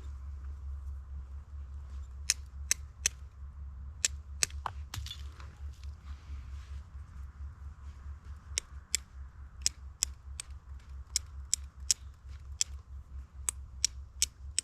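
Flint and steel being struck: sharp, high clicks of the steel striker glancing off the flint, in quick runs of two or three strikes with short pauses, as sparks are thrown onto char cloth.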